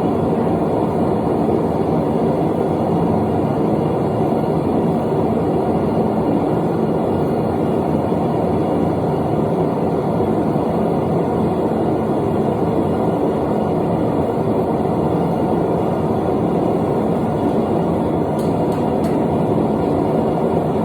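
A forge running with a steady, loud rushing noise. A few faint sharp clicks come near the end.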